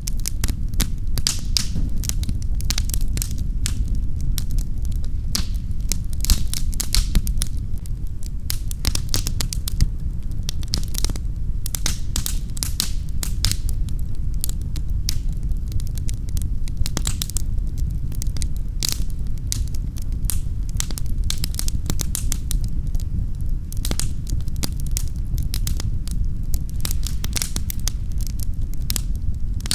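Wood fire in a fireplace, crackling and popping with frequent sharp snaps over a steady low rumble of the flames.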